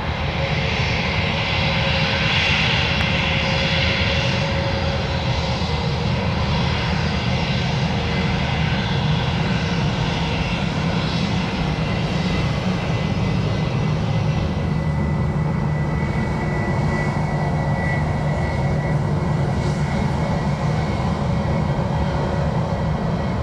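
Airliner engines running steadily, a low rumble under a high hiss that is strongest in the first few seconds, with a thin whining tone coming in about two-thirds of the way through.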